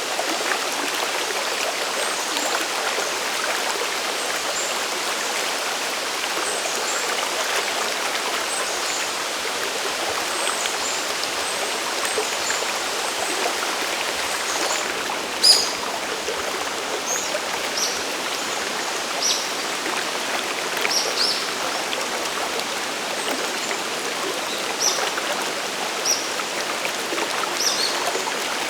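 Mountain stream and waterfall running steadily, a dense even rush of water with short, high ticks scattered through it and one brief louder click about fifteen seconds in.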